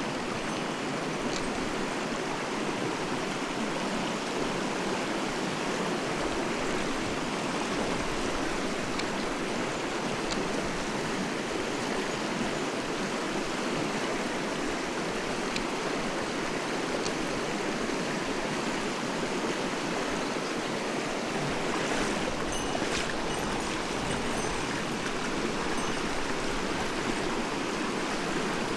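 Mountain stream running steadily over rocks, a full, even rush of water. There are a few faint clicks, and a brief rustle about three-quarters of the way through.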